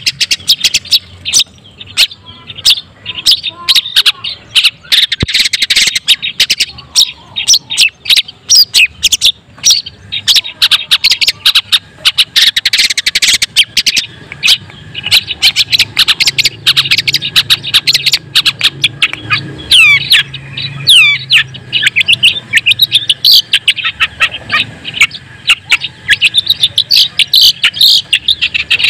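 White-breasted long-tailed shrike (cendet daput) in full song: a rapid, unbroken run of sharp, scratchy chattering notes mixed with quick gliding whistles.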